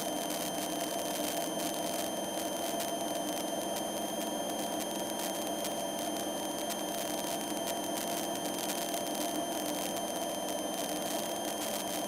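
Single-engine Cessna's piston engine and propeller in a climb, a steady drone heard inside the cockpit, with thin steady high whines over it.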